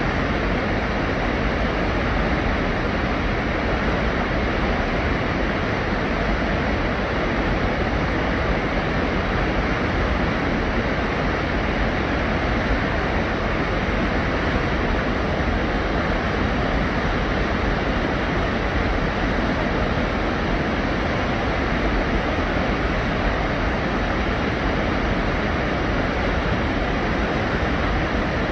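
Steady, even rushing of a mountain valley stream, mixed with falling rain, with no separate events.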